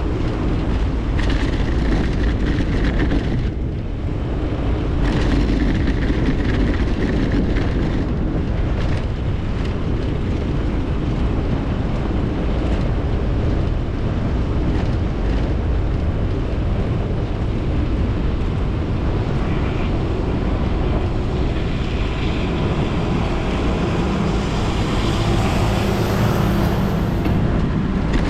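Wind rushing over the microphone with the rumble of a bicycle rolling along the road, steady throughout, with a brighter hiss building up near the end.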